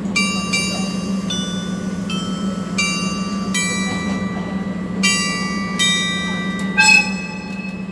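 Departure chime playing a short melody of bell-like notes as the train doors close, the loudest note near the end, over a steady low hum.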